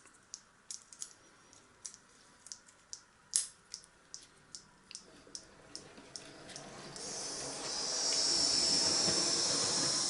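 A run of light, irregular clicks and taps, then about seven seconds in a steady steam hiss from a Train Tech analog sound unit for model locomotives, which grows louder and holds.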